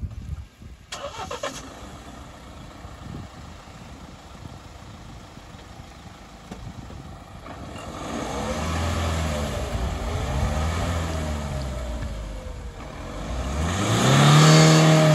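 A 4x4's engine revving up and down again and again, loudest near the end, typical of a vehicle trying to drive out of deep mud.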